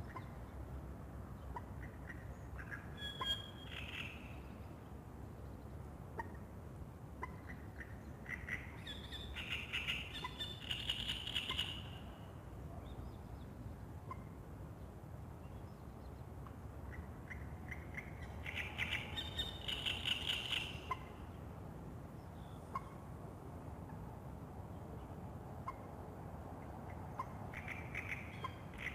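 A songbird singing short trilled phrases at dawn, each two to three seconds long and repeated about every eight seconds, over a steady low hum of outdoor background noise.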